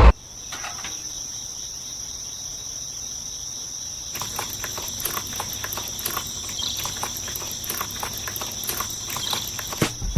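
Insects trilling, one steady high-pitched note throughout. From about four seconds in, many scattered light clicks and ticks join it.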